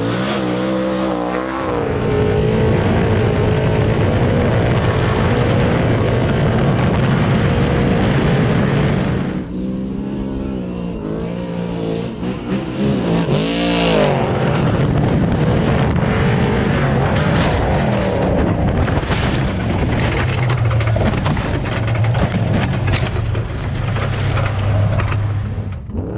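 Off-road race truck engines revving hard, their pitch rising and falling, with an abrupt change to another engine sound about nine seconds in. The later part carries frequent short clicks and knocks over the engine noise.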